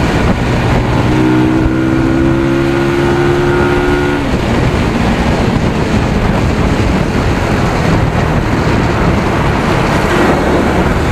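250 cc single-cylinder motorcycle engine on its stock exhaust, under way: the revs climb steadily for about three seconds, then drop at a gear change, and it runs on at a steady pace, with wind rushing past the microphone.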